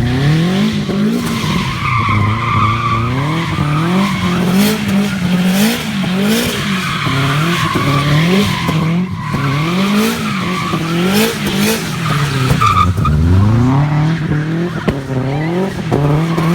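Turbocharged Subaru engine, the revs climbing and dropping about once a second, while the rear tyres squeal through a sustained drift.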